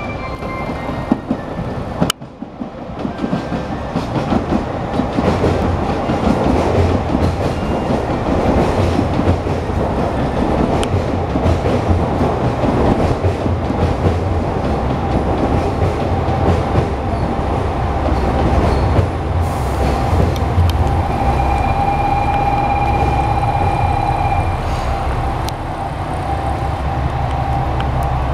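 Electric trains running through a station: a steady low rumble of wheels on rail with clatter over the rail joints. About three-quarters of the way through, a thin high squeal holds for a few seconds.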